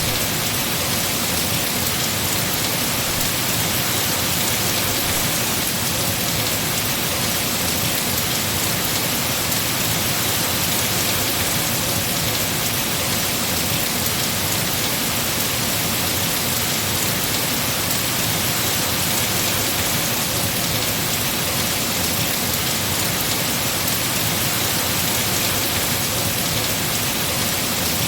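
Heavy rain falling steadily on trees, a constant even hiss.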